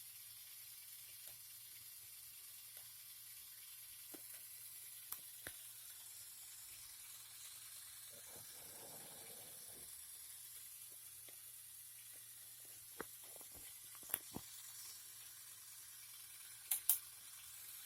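Steady faint hiss with scattered small sharp clicks, two of the loudest close together near the end, and a brief soft rustle about halfway through: Lego Technic plastic parts being handled.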